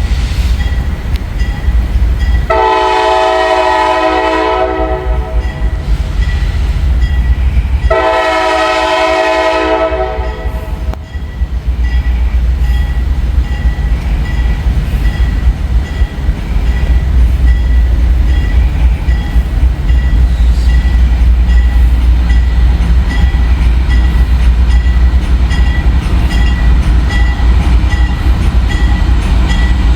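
Freight train led by GE Dash 9 diesel locomotives sounding two long blasts on its multi-chime air horn, then rumbling past with a steady heavy roll of wheels and cars.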